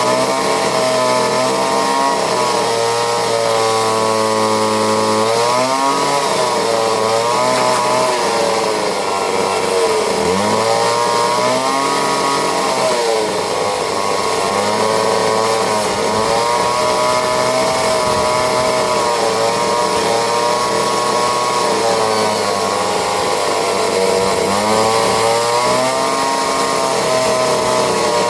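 McCulloch two-stroke chainsaw running, its engine revs rising and falling every few seconds as it cuts wood.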